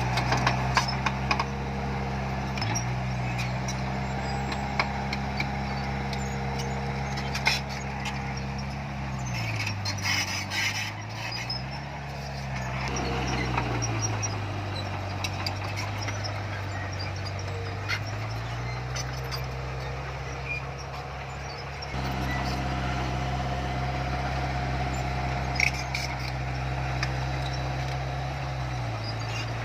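Heavy diesel engine of earthmoving machinery running steadily. Its pitch drops about a third of the way in, rises briefly, then climbs back up. Scattered clanks and knocks sound over it.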